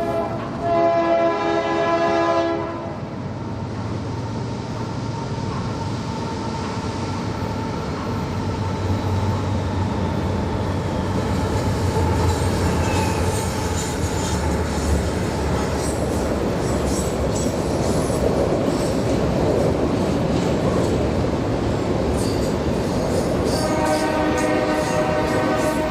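A train passing with its air horn sounding: a horn blast for the first two or three seconds, then engine rumble and wheels clattering over the rails, and the horn blowing again near the end.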